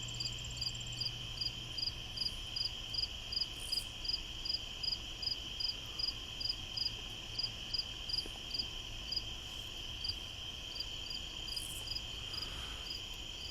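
Night insects, crickets, calling outdoors: a steady high trill with a second insect's short chirps repeating evenly about three times a second.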